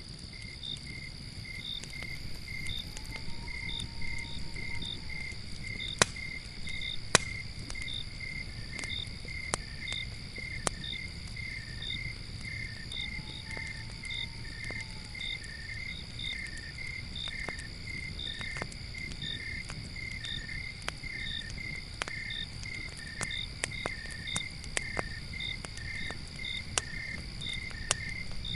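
Crickets chirping in a steady, even rhythm over a constant high insect drone, with a campfire crackling underneath in scattered pops, two sharper ones about six and seven seconds in.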